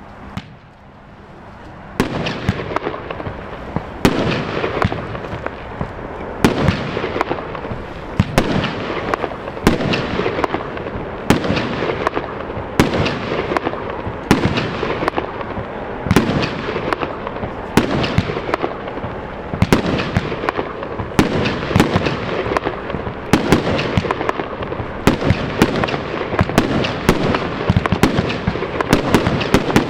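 Lesli 'Massive Escape' 75-shot 30 mm firework battery firing: after a short hiss, the cake begins about two seconds in and fires shot after shot, several sharp cracks a second over a continuous crackle.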